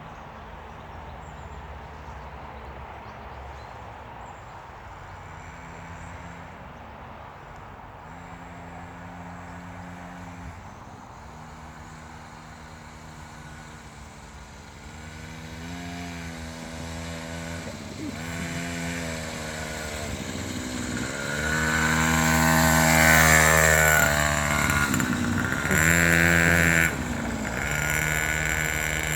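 Small motocross bike engine revving in repeated rises and dips of the throttle, faint at first, then growing much louder as it comes closer, loudest about three-quarters of the way in, then dropping back near the end.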